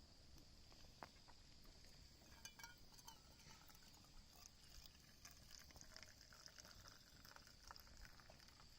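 Near silence: faint outdoor ambience with a steady high-pitched whine and scattered faint ticks.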